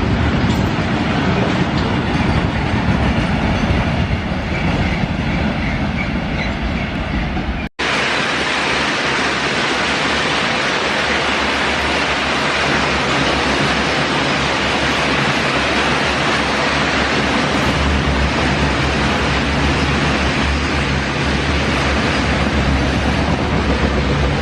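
Indian Railways goods train running past, its wagons rolling steadily on the rails, with a sudden break about eight seconds in before another stretch of the same steady train noise.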